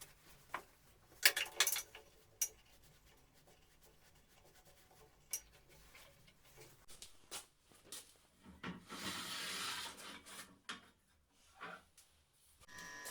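Hard parts being handled in a workshop: scattered clicks and knocks, the loudest a little over a second in, then a couple of seconds of rubbing or scraping about nine seconds in.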